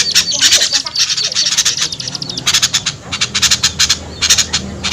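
Small birds giving rapid, harsh alarm chatter in dense runs of short notes, with a brief lull about two seconds in: a mixed lure recording of agitated small birds such as bulbuls, used to draw small birds down.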